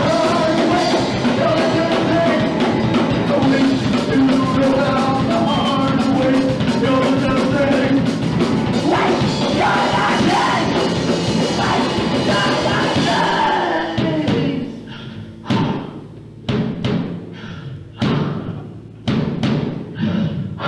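Punk rock band playing loud and live, drums and distorted guitars with some singing. About 14 seconds in the full band breaks into a series of about seven separate stabbed hits, each ringing out briefly before the next.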